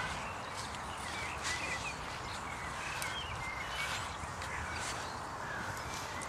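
Small birds chirping in short, scattered calls, over a steady outdoor background with a few faint clicks.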